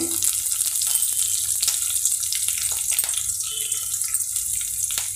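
Chopped small onions and fresh curry leaves sizzling in hot oil in a kadai: a steady hiss with many scattered sharp crackles.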